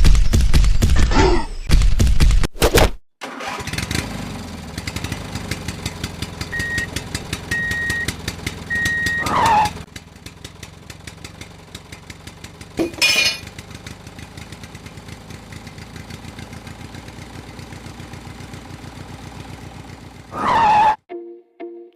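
An engine runs loudly for the first few seconds and then cuts out. It starts again with a rapid pulsing chug that quickens about four seconds in and holds steady until near the end. Three short beeps come around a third of the way through, and a few brief falling swooshes come and go.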